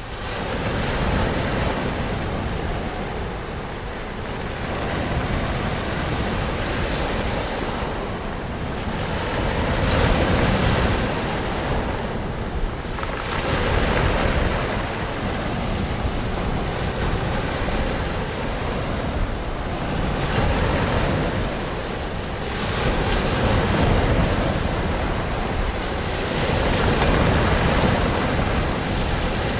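Ocean surf, waves breaking and washing ashore in a continuous rush that swells and eases every few seconds, with a deep rumble underneath.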